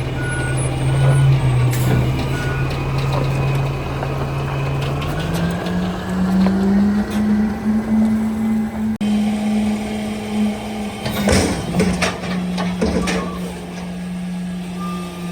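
Heavy truck engine running steadily, its pitch rising about five seconds in as it speeds up. A few short high beeps sound in the first couple of seconds, and several loud bursts of hiss or clatter come about eleven to thirteen seconds in.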